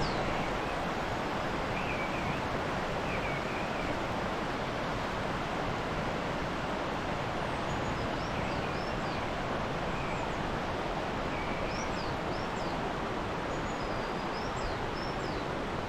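Steady rush of river water, with songbirds chirping in short, repeated phrases over it.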